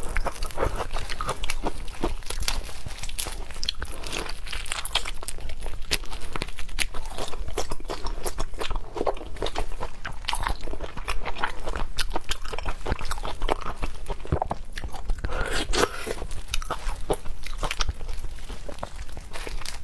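Close-miked chewing and biting of seafood: many quick, irregular clicks as the food is bitten and chewed.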